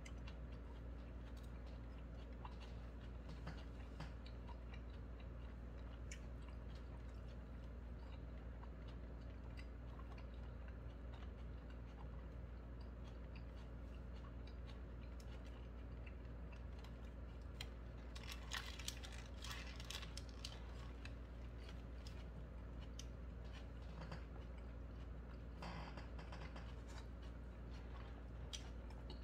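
Quiet chewing of a hamburger with soft mouth clicks, over a steady low hum. A little past halfway come a few short bursts of louder crinkling from the burger's paper wrapper.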